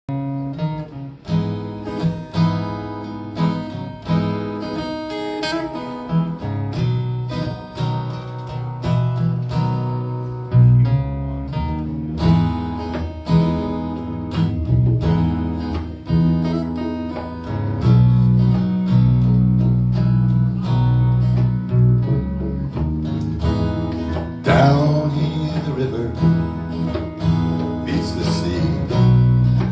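Acoustic guitar playing an instrumental intro, picked notes and strummed chords, with deeper bass notes joining about ten seconds in.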